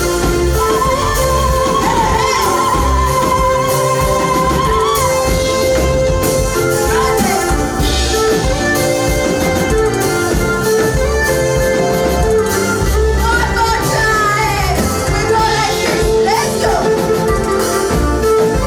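A praise band playing with singing, over a steady drum beat.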